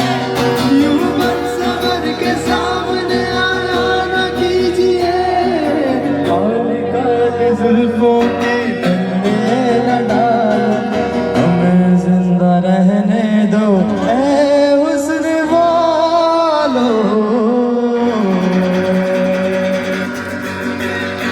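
A song playing: a singer's melody, drawn out and ornamented, over instrumental accompaniment.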